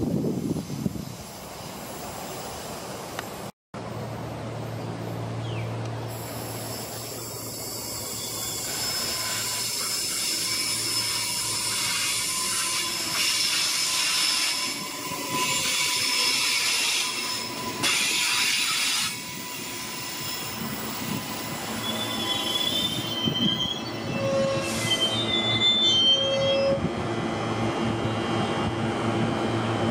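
Queensland Rail electric multiple-unit train running alongside a station platform: a steady rumble with a held high whine, and wavering high-pitched wheel squeals near the end.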